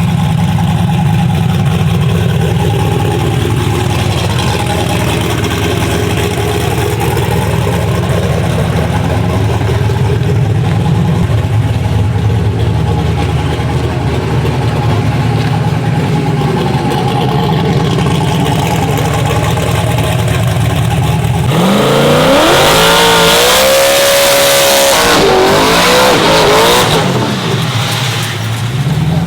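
Twin-turbo drag truck engine running steadily, then about 21 seconds in it launches hard, pitch climbing fast, dipping at a gear shift and climbing again before fading away.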